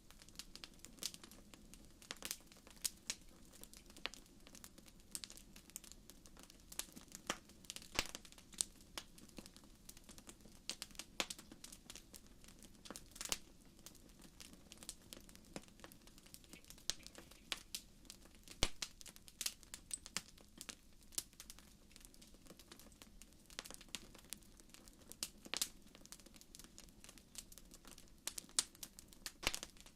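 Fire crackling in a fireplace: irregular sharp pops and snaps, several a second, over a faint steady low hiss of burning.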